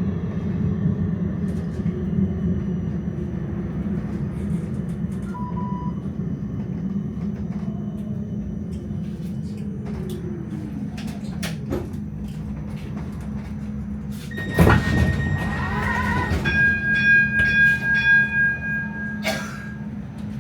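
Tram running with a steady low rumble, its motor tone falling as it slows to a stop. Partway through comes a loud clunk, then a run of pulsing beeps like a door warning signal.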